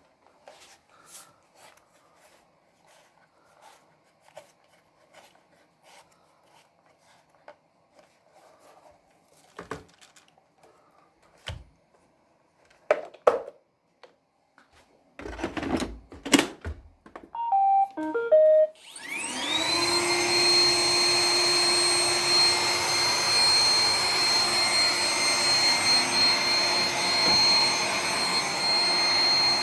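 Roomba 980 robot vacuum starting a cleaning run: scattered clicks and knocks, then a short run of electronic beeps, then the vacuum motor spinning up with a rising whine about 19 seconds in and running steadily with a high whine.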